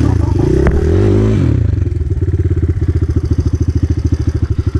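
Enduro motorcycle engine revved up and down briefly, then settling about a second and a half in to a steady idle with an even, rapid pulse.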